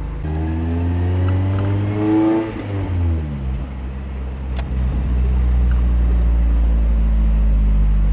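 NB Mazda Miata's four-cylinder engine revving up under acceleration for about two seconds, then dropping in pitch as the throttle comes off, and settling into a steady low drone.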